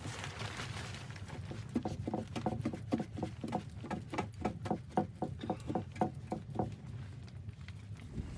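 Footsteps squeaking and crunching in very cold snow, about three steps a second for several seconds, over a steady low wind rumble.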